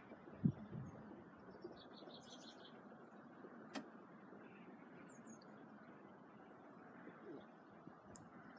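A few short, high bird chirps, in a quick run about two seconds in and again around five seconds, over steady low background noise, with a knock about half a second in and a sharp click near four seconds.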